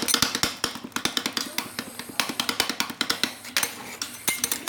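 Steel scrapers chopping and tapping on the cold steel plate of a rolled ice cream griddle: rapid, uneven metal clacking, many strokes a second, as fruit is chopped into the ice cream base.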